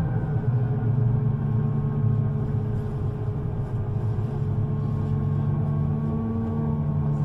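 Interior sound of a public-transport vehicle running between stops: a steady low hum with faint motor whine tones that drift slowly in pitch.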